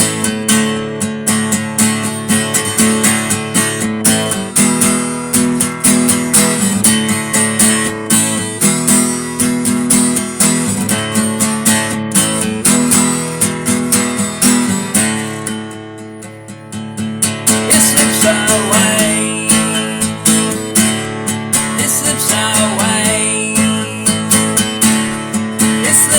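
Acoustic guitar strummed in a steady rhythm, an instrumental passage with no singing. The playing drops briefly softer a little past the middle, then comes back up to full strength.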